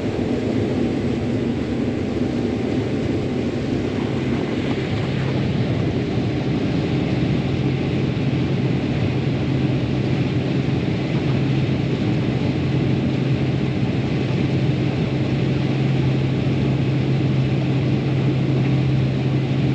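Combine harvester running while cutting corn: a steady mechanical drone with a low hum that grows stronger about five seconds in and then holds.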